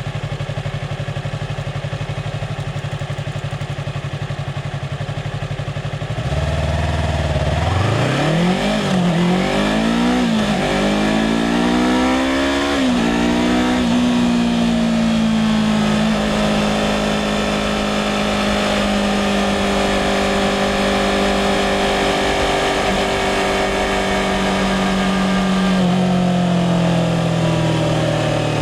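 2016 Yamaha R3's parallel-twin engine idling steadily, then pulling away about six seconds in and revving up through the gears, with four quick upshifts. It then holds a steady cruising pitch, and the revs fall off near the end.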